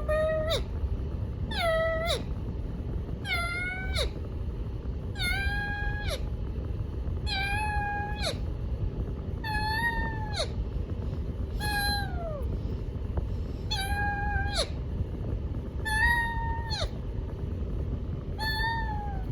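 Indian ringneck parrot giving a meow-like call over and over, about ten times at roughly two-second intervals; each call holds its pitch briefly, then drops away at the end.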